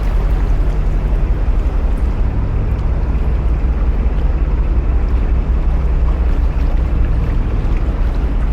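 Narrowboat's diesel engine running steadily under way, with a low, even chugging, inside a long brick canal tunnel.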